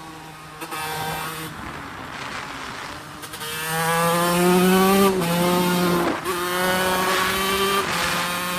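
TM Racing SMR 125 single-cylinder two-stroke engine on the go: low and steady at first, then revving up hard a little past a third of the way in, with the pitch breaking twice in quick succession as gears are shifted up, then pulling on.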